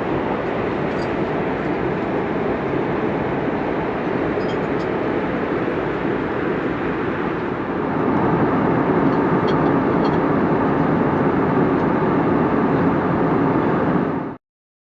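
Steady rumble of cabin noise inside an Airbus A321neo jet airliner, with engines and airflow running. It gets louder about eight seconds in and cuts off abruptly near the end.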